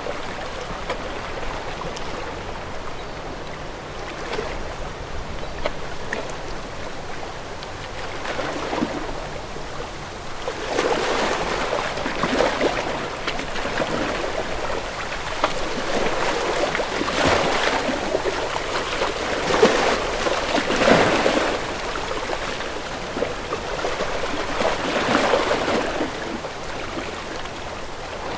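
Sea waves lapping and sloshing against a sailing boat's hull, in repeated surges every second or two that grow busier and louder through the middle.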